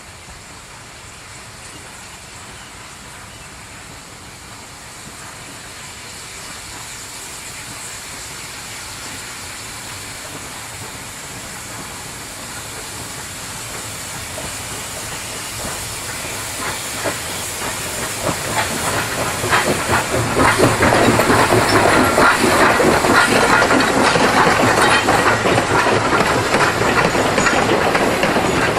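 Narrow-gauge steam train on the move: steam hissing and wheels clicking on the rails, growing steadily louder and loudest from about two-thirds of the way in.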